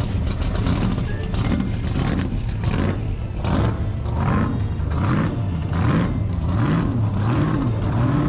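Car engine running and being revved up and down over and over, its pitch rising and falling in quick, regular swells through the second half.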